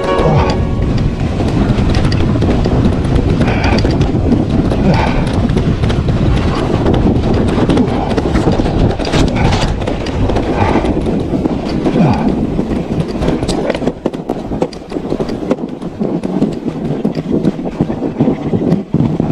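Mountain bike ridden over snow: a steady rumble and rattle from the tyres and frame, with clicking and cracking from a chain jammed with packed snow. The rumble eases about fourteen seconds in.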